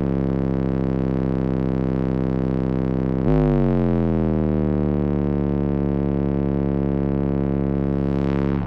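Car-audio system of fourteen Resilient Sounds Platinum 18-inch subwoofers in a 6th-order enclosure playing a loud, sustained deep bass note rich in overtones. The pitch sags slightly, the note is struck again a little over three seconds in, and then it sags again.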